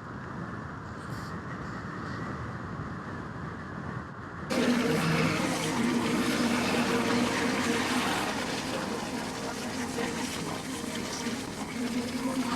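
Motorcycle on the move, heard from the rider's helmet: a steady rush of wind and road noise. About four and a half seconds in the sound abruptly becomes louder and fuller, with a steady engine hum under the rush.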